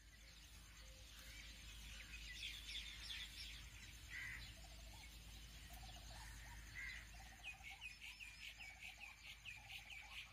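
Faint birdsong: small birds chirping and calling, ending in a quick run of repeated high chirps, several a second, over a low steady hum.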